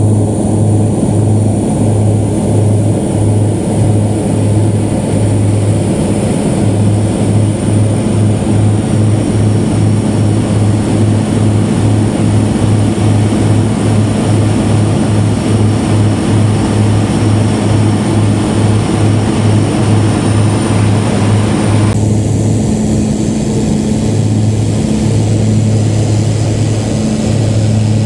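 Propeller airplane engine droning steadily in flight: a loud low pulsing hum with a faint high whine that drops out about three quarters of the way through.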